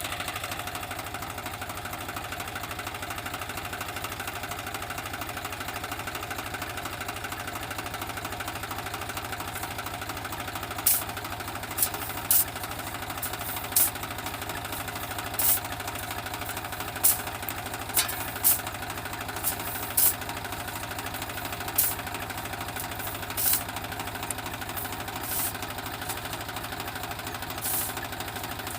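Swaraj tractor's diesel engine running steadily with a fast, even knocking beat. From a little before halfway, short sharp high-pitched sounds cut in every second or two and stand out above the engine.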